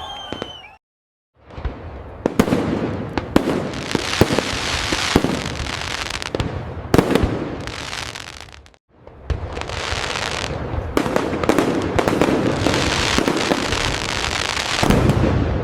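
Fireworks display: dense crackling with many sharp bangs of aerial bursts, cutting to silence for a moment about a second in and again near nine seconds.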